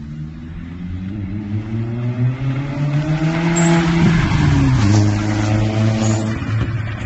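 Turbocharged MK4 Jetta engine accelerating, its pitch rising steadily, then dropping suddenly about four seconds in with a rush of hiss, the HKS SSQ blow-off valve venting as the throttle closes. It runs on at a lower, steadier pitch before falling off again near the end.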